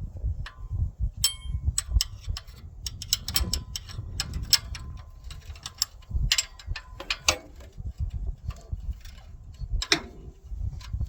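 Ratchet wrench clicking and metal tools clinking in irregular bursts as rusted bolts are worked loose.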